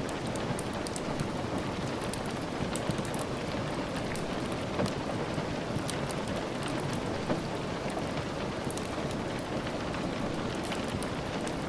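Steady rain falling, with scattered small sharp crackles and pops from a wood fire.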